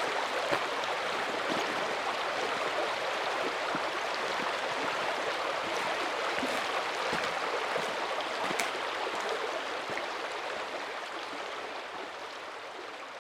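Mountain stream running steadily, a continuous rush of water with a few faint clicks, fading out over the last few seconds.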